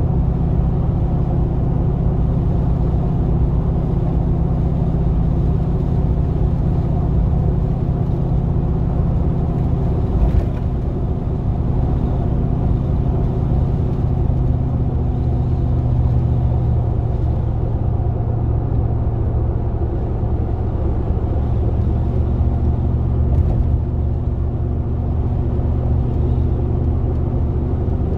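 GMC Vandura / Chevrolet G20 van's V8 engine running steadily while driving. Its pitch shifts about ten seconds in, where there is a brief click, and again about twenty-two seconds in.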